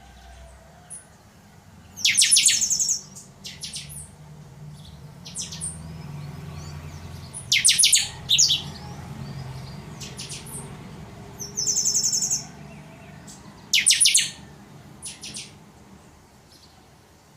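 Chanchão singing its 'totonsidonso' song: short, high, loud phrases repeated about every two seconds, with a low hum underneath.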